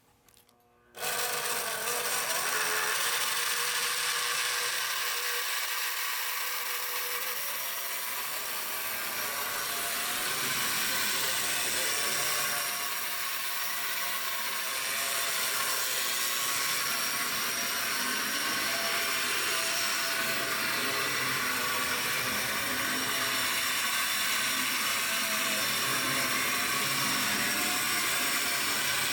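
Small electric motor of an HO-scale model train locomotive running, a steady whir that switches on suddenly about a second in.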